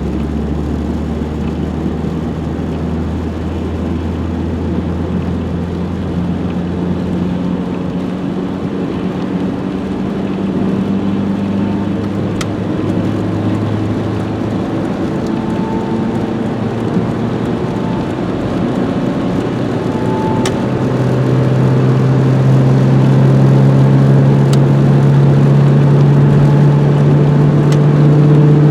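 Renault 21 GTS's 1.7-litre carburetted engine running under way, its pitch climbing slowly as the car gathers speed. It grows louder about two-thirds of the way through.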